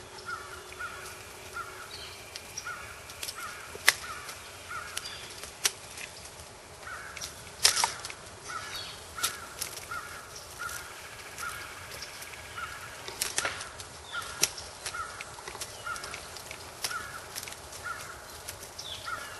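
Woodland ambience: a bird repeating a short call two to three times a second, with scattered sharp clicks and knocks, the loudest about 4 and 8 seconds in.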